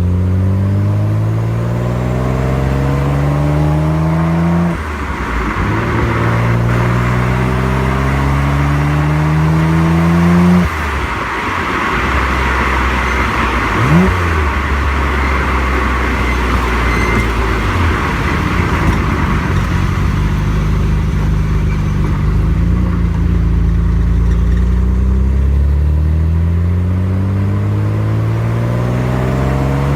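Nissan Skyline GT-R R33's RB26DETT twin-turbo inline-six exhaust under way, heard at the muffler: the engine note climbs through two gears with a drop in pitch at each upshift, cruises at a steady note with road and wind hiss, then climbs again near the end.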